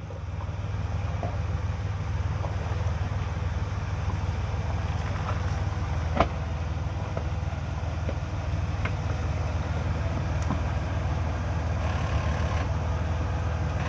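Jeep Wrangler engine running slowly as it crawls over a rock obstacle, with one sharp knock about six seconds in.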